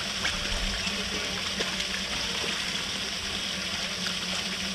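Steady hiss of rain falling on the water around a boat, even throughout, with a low steady hum underneath.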